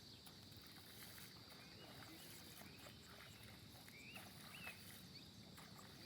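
Faint outdoor ambience: a steady high-pitched insect drone, with two short chirps a little past the middle.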